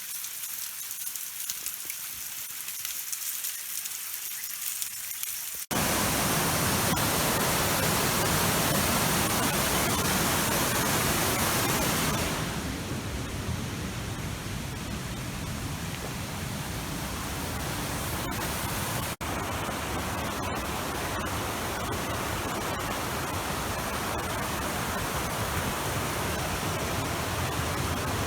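Steady outdoor rushing noise, even across high and low pitches. It jumps louder abruptly about six seconds in and eases back a little around twelve seconds.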